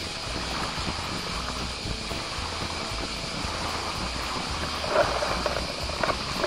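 Steady rush of flowing water with wind buffeting the microphone, and a couple of brief splashy sounds about five and six seconds in.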